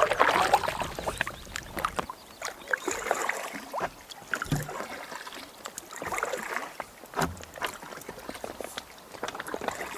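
Kayak paddle strokes: the blades dip in and splash the water at an irregular pace, with water trickling off them. The biggest splash comes right at the start.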